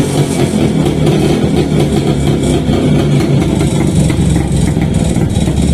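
Restored Čezeta 175/501 scooter's single-cylinder two-stroke engine running.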